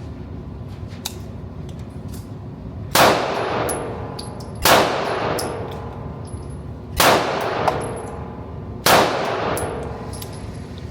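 Four gunshots fired about two seconds apart, each ringing out for about a second.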